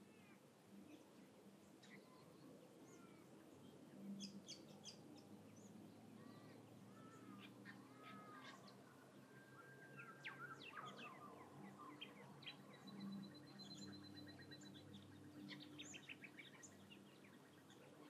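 Faint chorus of several wild birds calling in bushland: scattered short chirps and quick whistled sweeps, a high steady trill about two-thirds of the way in, and a fast run of ticking notes near the end, over a faint low hum.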